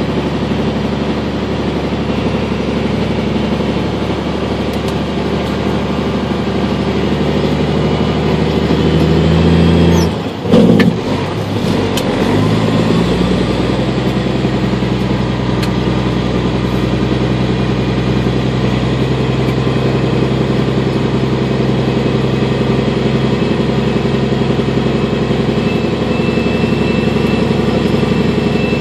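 Vehicle engine running steadily while driving, heard from inside the cab. It builds up, and about ten seconds in its note dips and picks up again, with a brief loud knock.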